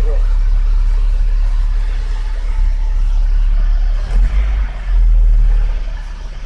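1998 Toyota Kijang LGX engine idling, with a heavy, steady low rumble that eases off briefly near the end.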